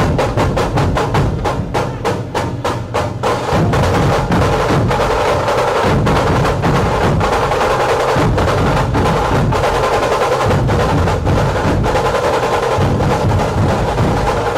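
Loud, fast percussion music: drums struck in a rapid, steady rhythm.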